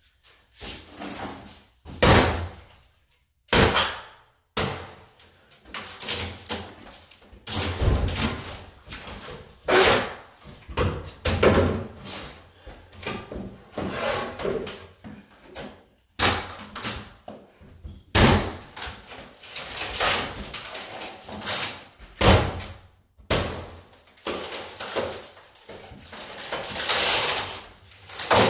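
Irregular knocks, bangs and scraping of a cabinet being broken apart and pried out by hand, with a few short pauses between bouts.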